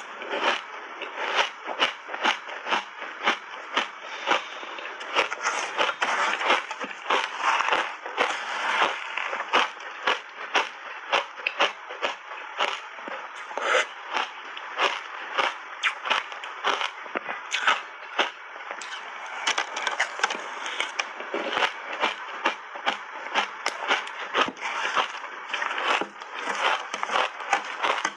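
Close-up chewing of crunchy shaved ice coated in milk powder: a steady run of sharp crunches, about two a second, over a continuous crackle.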